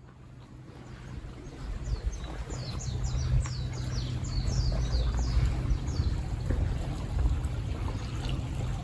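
Spring-fed shallow stream flowing, fading in, with a small songbird singing a quick run of high, downward-sweeping notes from about two seconds in to about six seconds in.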